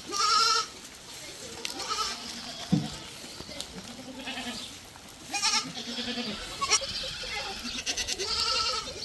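Goats bleating, several short calls from different animals, the loudest right at the start and again about five and a half seconds in.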